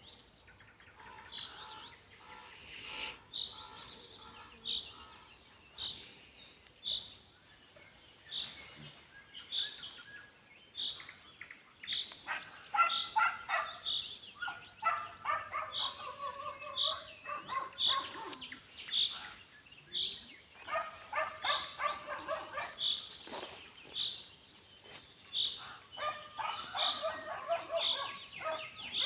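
Songbirds singing at dawn. One bird repeats a short high note about once a second the whole time. From about halfway through, another sings longer, busier warbling phrases several times.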